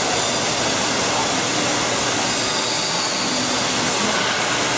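Steady rushing noise with no breaks.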